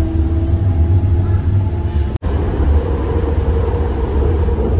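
Steady low rumble of a light-rail train in motion, heard from on board. The sound cuts out for an instant about two seconds in.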